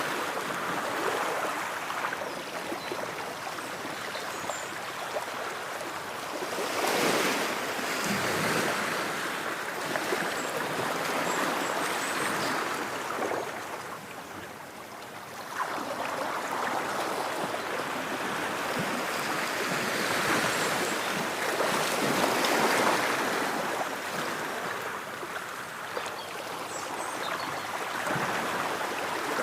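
Ocean waves washing onto a shore, a continuous rush that swells and ebbs, with several surges and a lull about halfway through.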